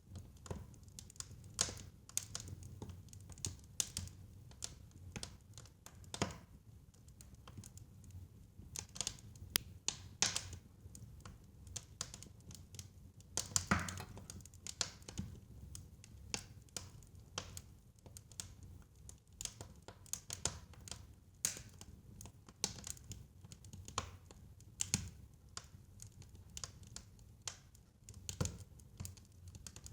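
Wood fire crackling in a fireplace: irregular small pops and snaps, a few louder ones, over a low steady rumble.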